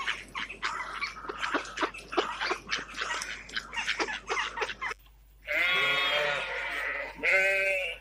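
Ducks calling with many short, rapid quacks, then after a brief pause a goat bleats twice: one long bleat followed by a shorter, louder one near the end.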